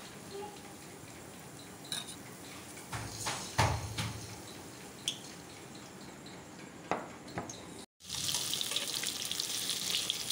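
Besan-battered pumpkin flowers deep-frying in hot oil in a kadai: a steady sizzle with a few knocks of a utensil against the pan. The sound cuts out briefly near the end and the sizzling returns louder and brighter.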